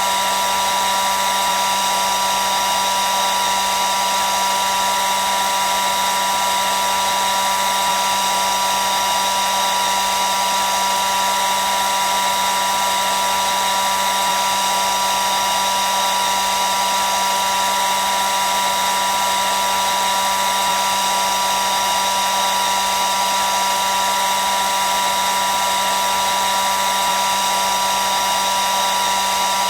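Hair dryer running continuously: a steady rush of blown air with a constant high motor whine and a low hum, unchanging throughout.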